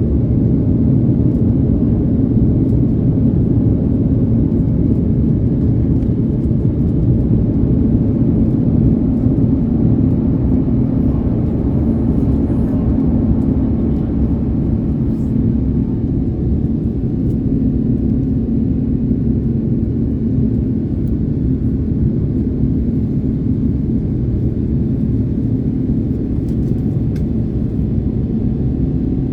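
Steady low rumble of an Airbus A330neo's Rolls-Royce Trent 7000 engines, heard from inside the passenger cabin. It eases slightly about halfway through.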